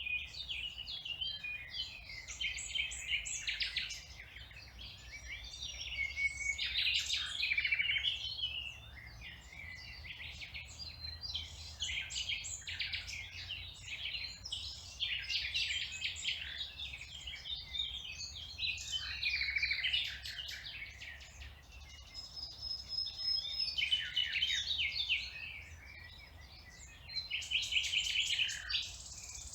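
Songbirds singing in a dense, continuous chorus of chirps and trills, over a faint steady low rumble.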